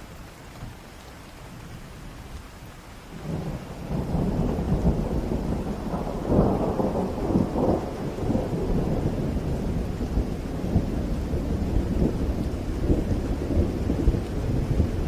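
Steady rain with a roll of thunder that builds about three seconds in, is loudest around the middle, and keeps rumbling to the end.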